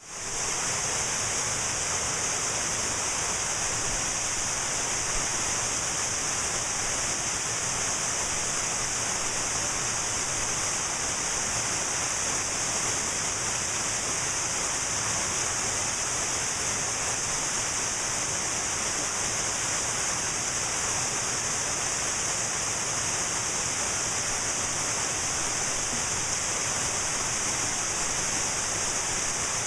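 Cascading mountain waterfall: a steady rush of falling water with a strong, bright hiss on top. It fades in at the very start.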